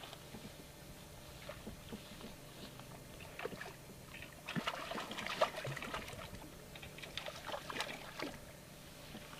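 Small water splashes and scattered knocks and clicks around a plastic fishing kayak as a trout is brought up to the boat, busiest about halfway through.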